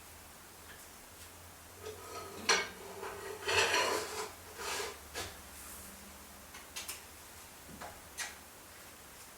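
Metal tools and parts clinking and knocking against a milling machine, with a short run of clattering, ringing clinks a few seconds in and a few single knocks later, over a low machine-shop hum.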